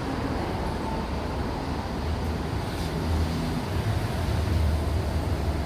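Steady city background noise with a low vehicle rumble that grows stronger about three seconds in.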